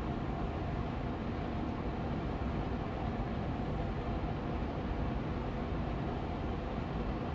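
Austin Air Allergy Machine air purifier fan running steadily on medium speed: an even rush of air with a faint steady hum.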